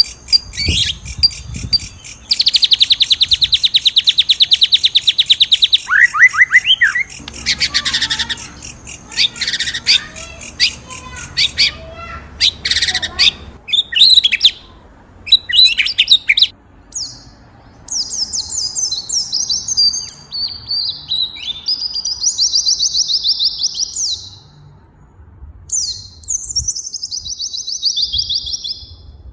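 Songbirds singing and chirping: a long, very fast trill begins about two seconds in and lasts about three seconds, followed by scattered chirps, then buzzy, rapidly pulsed chattering phrases through the second half.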